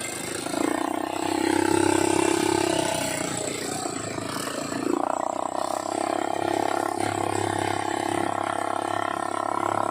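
All-terrain vehicle engine running while riding, its pitch rising and falling with the throttle.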